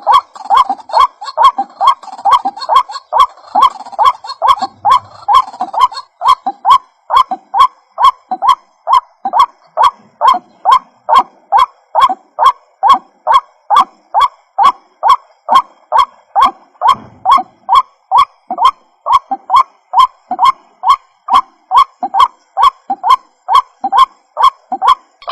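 White-breasted waterhen (ruak-ruak) calling: a steady, rhythmic string of harsh, repeated notes at about two to three a second. It is played as a lure call to draw other waterhens in.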